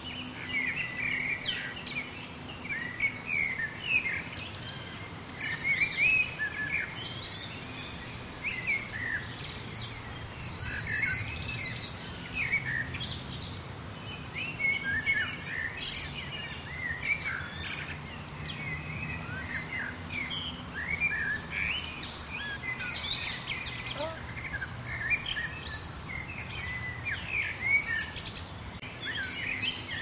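Several small songbirds chirping and calling almost continuously, with a few high, rapid trills now and then.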